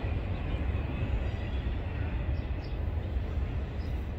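Intermodal freight train's cars rolling away on the rails, a steady low rumble.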